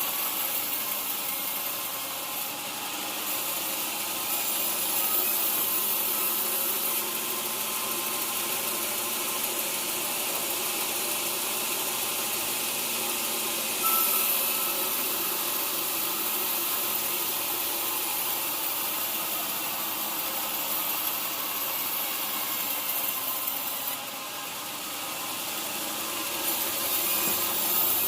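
Sawmill saw running and cutting through a teak log, a steady machine noise that swells and eases as the cut goes on, with a brief rise about halfway through.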